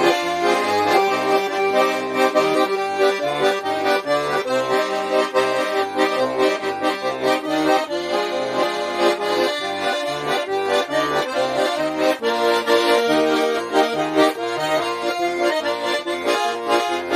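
Russian garmon (button accordion) playing a lively folk tune: a melody with chords in the right hand over a steady, alternating bass-and-chord beat from the left-hand buttons.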